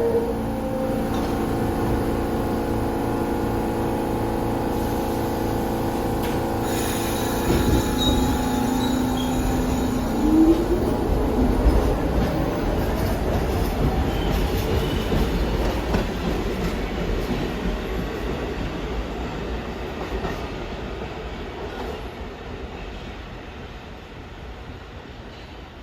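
New York City subway train moving through the station, its wheels and motors giving several steady whining tones with a short rising whine about ten seconds in. The rumble then fades steadily as the train moves away.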